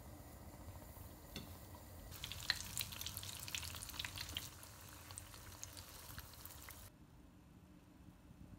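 Breaded anchovy fillets frying in shallow oil in a pan, sizzling with many small crackles and pops. The sizzle starts about two seconds in and cuts off suddenly about seven seconds in.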